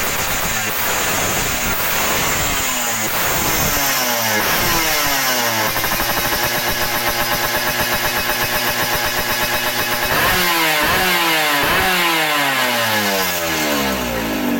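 Two-stroke motorcycle engine revving through a racing exhaust. Its pitch climbs and holds high, then drops and climbs again several times.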